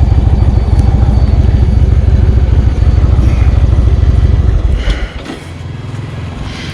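Indian Chieftain's V-twin engine running loud under way, then about five seconds in it drops off and settles to a quieter, steady low rumble.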